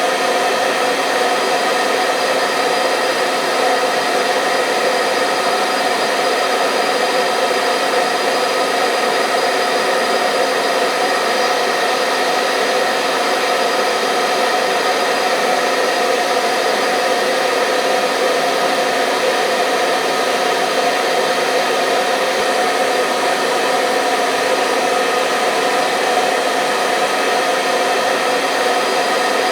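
Hair dryer running continuously at a steady speed: an even rush of air with a steady motor hum and whine, unchanging throughout.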